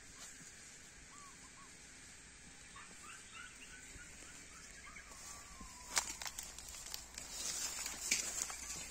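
Quiet outdoor ambience with faint, short bird chirps. About six seconds in there is a sharp click, followed by louder rustling and crackling of vegetation.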